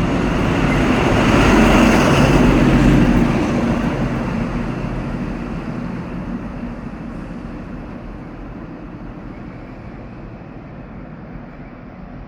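XPT diesel passenger train passing and pulling away, its engine hum and wheel noise loudest about two to three seconds in, then fading steadily as it draws off.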